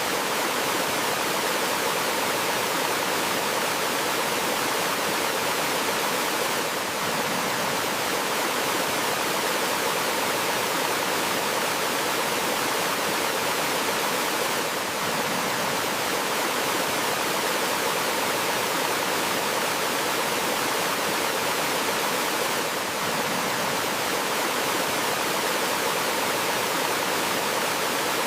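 Flowing water of a small forest waterfall, a steady, even rushing hiss with no birdsong heard. The level dips slightly about every eight seconds.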